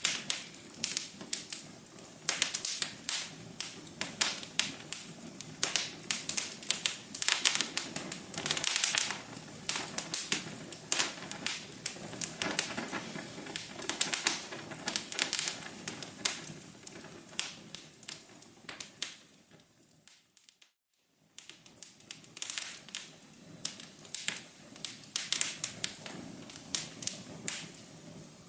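Wood fire crackling, with dense irregular pops and snaps over a soft hiss and a faint steady hum. About two-thirds through, the crackling fades out, goes silent for under a second, then starts again.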